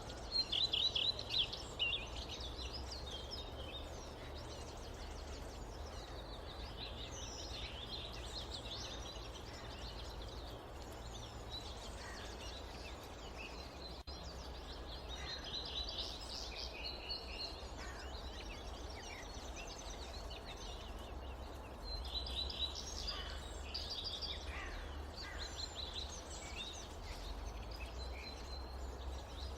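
Forest ambience: several birds chirping and trilling in short repeated phrases over a steady low rumble of wind. The loudest burst of song comes about half a second in, with more clusters of calls later on.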